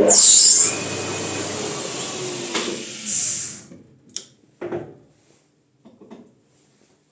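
Bicycle disc brake pads rubbing on a rotor spun by a metal lathe: a loud scraping hiss with a thin high squeal. It dies away after about three and a half seconds, followed by a few separate clicks and knocks.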